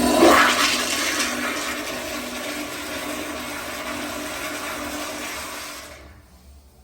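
Commercial flushometer toilet or urinal flushing: a loud rush of water that peaks at the start, eases slowly, and cuts off about six seconds in.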